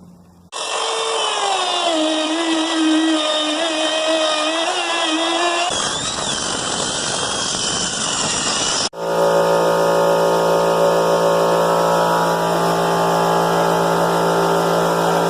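Electric power tool motors running in three short cuts: first a high whine that dips and wavers in pitch as if under load, then a rougher, noisier stretch, then a steady lower hum.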